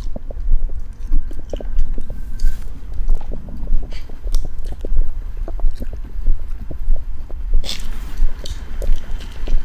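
Close-miked chewing and biting of soft food: wet clicks and low thumps in a steady rhythm, with a short rustling hiss about three-quarters of the way through.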